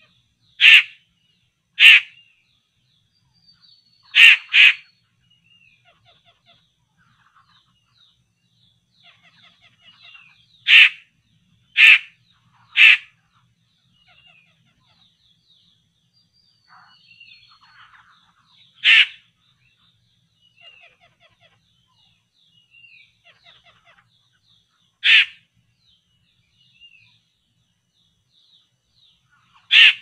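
Loud, harsh bird calls, short and often in close pairs, repeated every few seconds, with faint high twittering between them.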